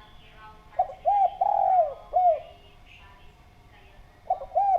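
Spotted dove (derkuku/tekukur) cooing: about a second in comes one phrase of four coos, a short note, a brief arched coo, a long falling coo and a short final coo. The same phrase starts again near the end.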